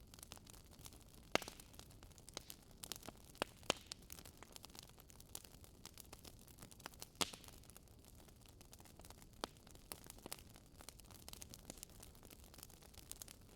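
Burning wood in a Swedish fire log crackling: irregular sharp pops and snaps over a faint hiss, the loudest pops about a second in, near four seconds and about seven seconds in.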